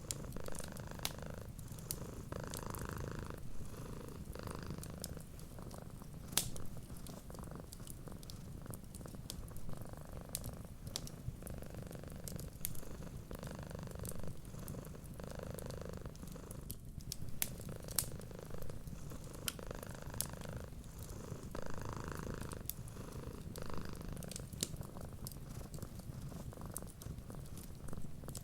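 Domestic cat purring steadily, the purr swelling with each breath about every second and a half, with sharp pops and clicks of a crackling wood fire scattered through it.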